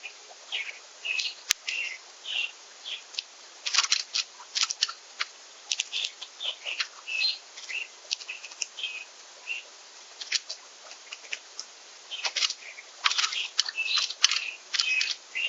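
Small songbirds calling: a busy run of short chirps and sharp chip notes, several a second in bunches, with brief pauses.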